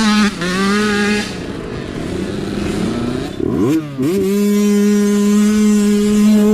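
Small youth dirt bike engine running at high revs, easing off for about two seconds, then dipping sharply and climbing back to a steady high rev held to the end.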